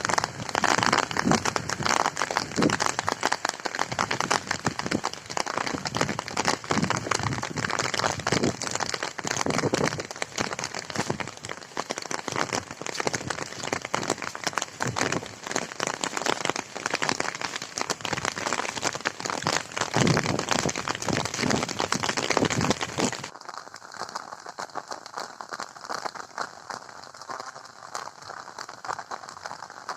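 Heavy rain falling, a dense patter of drops. About three-quarters of the way through it abruptly becomes quieter and softer.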